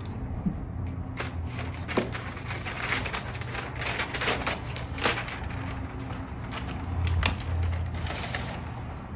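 Paper and tape being handled: irregular crinkling, tapping and tearing clicks, over a low steady hum.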